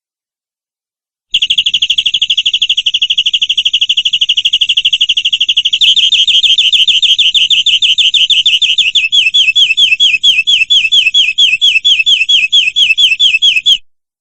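Domestic canary singing a run of trilled tours. It starts about a second in with a very fast, dense trill, changes to a slower trill a few seconds later, and then to repeated falling notes about five a second before stopping abruptly.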